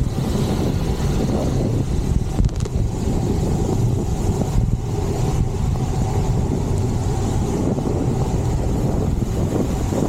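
Steady rush of wind buffeting the microphone while riding through heavy rain, with rain and road noise beneath it.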